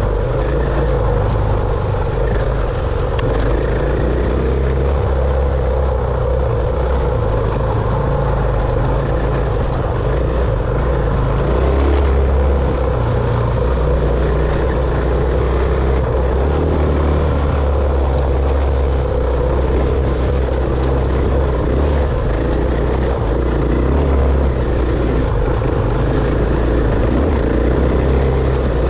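Dirt bike engine running steadily while being ridden, a loud continuous drone with a heavy low rumble.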